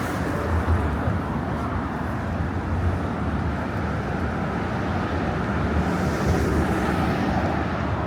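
Steady road traffic, a continuous low rumble and hiss with no single event standing out.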